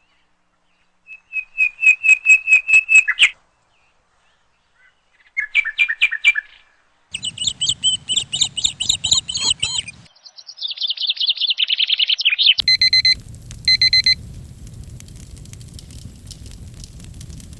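Birdsong timer alarm of a Pomodoro session: four loud phrases of quick, repeated bird chirps rising out of dead silence. About 13 seconds in come two short electronic beeps, and a fireplace's steady crackling starts with them.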